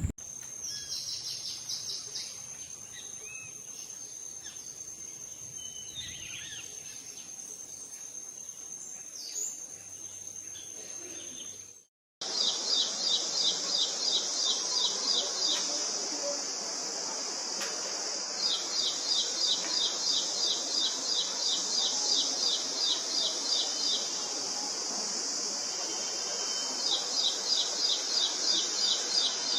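Outdoor insect and bird chorus: a steady high insect drone with scattered bird chirps, then, after a sudden cut, a louder steady high insect hum with repeated runs of rapid, evenly spaced high chirps that start and stop several times.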